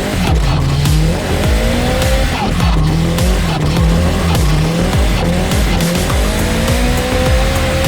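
Car engine revving hard, its pitch rising and falling again and again, with tyres squealing as the car skids.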